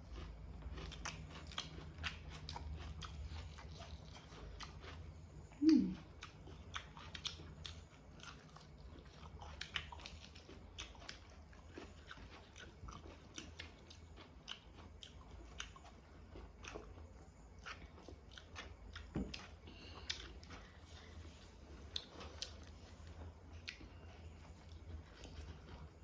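A person eating egg curry with rice: steady chewing with many small wet mouth clicks and crunchy bites, and a short hum about six seconds in.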